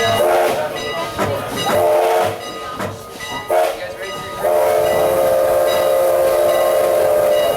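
Steam locomotive No. 89's chime whistle sounding a few short toots, then one long held blast from about halfway in.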